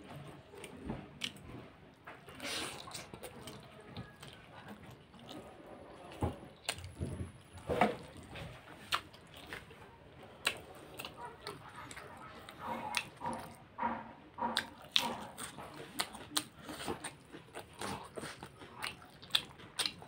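Close-up chewing of momo dumplings: irregular mouth clicks and smacks while the food is chewed.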